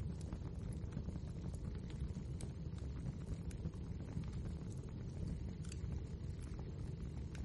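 Wood fire burning in a fireplace: a steady low rumble with frequent small crackles and pops scattered irregularly throughout.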